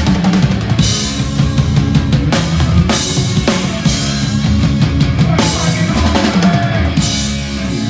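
Hardcore punk band playing live, loud, with the drum kit to the fore: bass drum, snare and cymbals struck in a steady rhythm over the low band sound.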